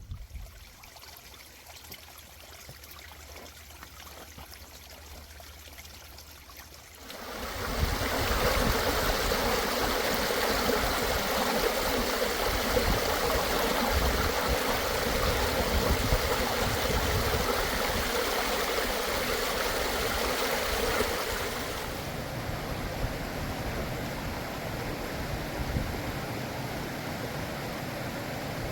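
Stream water flowing over rocks, a steady rushing that comes in much louder about seven seconds in and eases back somewhat near the last third.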